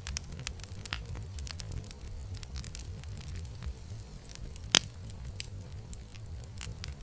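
Campfire crackling, with many small scattered pops over a low rumble and one sharper, louder pop a little under five seconds in.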